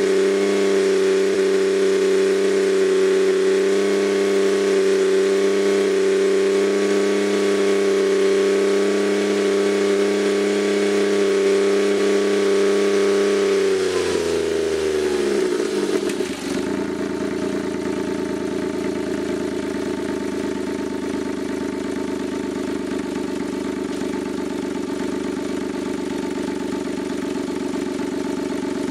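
Freshly overhauled Suzuki K6A three-cylinder turbo engine running steadily at raised revs. About fourteen seconds in, the revs fall away over two seconds and it settles into a steady idle.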